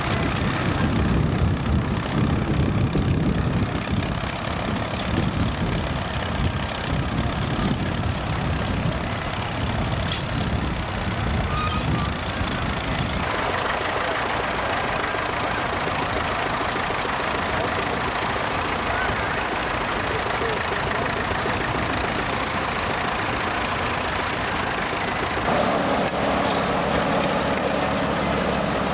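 Vintage tractor engine running, a dense pulsing low rumble that evens out about halfway through and shifts in tone again near the end.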